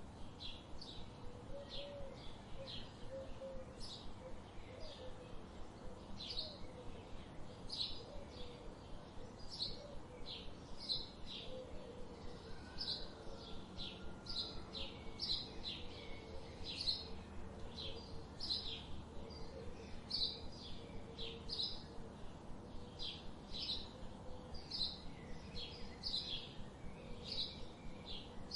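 Birds chirping: short high chirps repeating about twice a second, over a faint steady low background hum.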